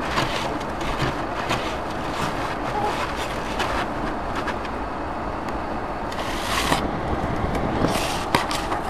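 A car driving on snowy roads, heard from inside the cabin: steady engine and tyre noise with scattered light knocks, and a brief hissing swell about six seconds in and again near the end.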